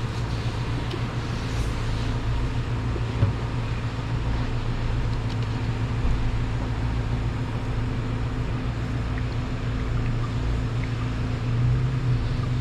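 Steady low mechanical hum, one unbroken drone that grows a little stronger near the end.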